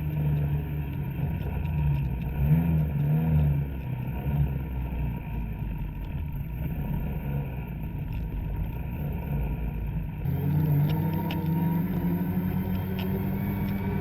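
Two-stroke snowmobile engine running under throttle, revving up and down a couple of times about two to three seconds in. Just after ten seconds in, the engine note changes to a steadier, slightly higher pitch.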